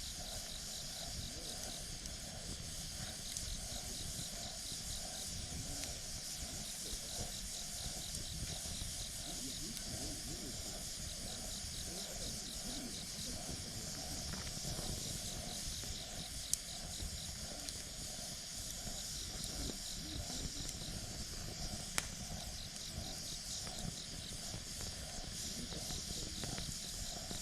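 Wood fire burning with a steady hiss and soft low crackle, with two sharp pops, one a little past the middle and one later. A high chirping in short repeated trains sounds on and off behind it.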